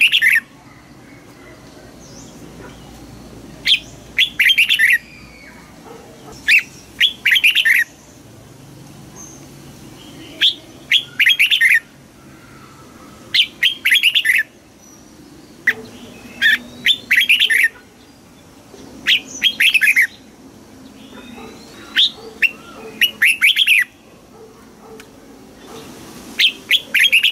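Red-whiskered bulbul singing: short, loud phrases of rapid whistled notes, each about a second long, repeated roughly every three seconds.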